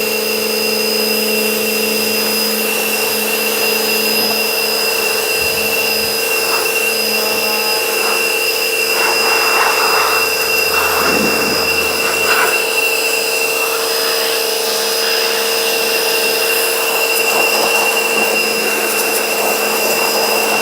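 Pressure washer running steadily, its motor and pump giving a constant whine over the hiss of the spray jet, with the spray noise changing now and then as it strikes different surfaces.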